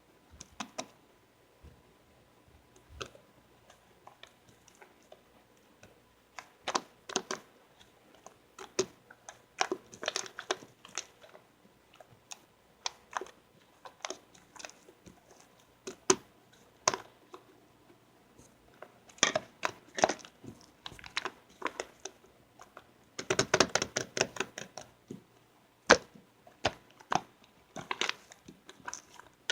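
White slime being squished and poked by hand, giving groups of sticky clicks and small pops with short pauses between; the densest crackling comes about two-thirds of the way through.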